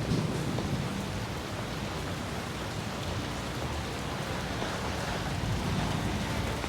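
Heavy rain pouring down steadily, heard from under shelter.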